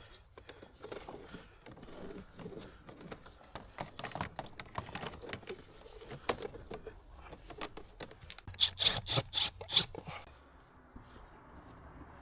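Hand work with cable and tools: steady small rubbing and clicking, then a quick run of about six sharp, loud scrapes, as when a fibre drop cable's jacket is being stripped.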